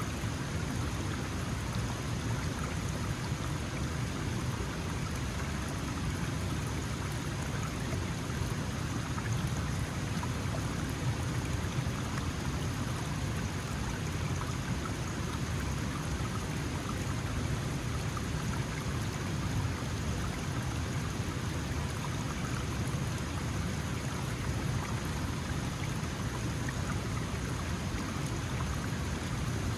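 Small mountain stream flowing and splashing over stones, a steady rushing and babbling.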